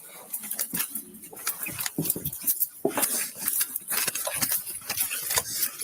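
Rapid, irregular light clinks and rustles of metal gear knocking together as an officer wearing a body camera moves about.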